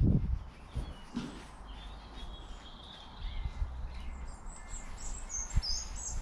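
Small birds chirping and singing, short high calls from about two seconds in, over a low background hum. A brief rubbing sound at the very start.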